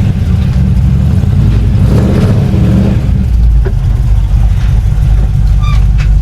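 Studebaker car engine running, a steady loud low rumble.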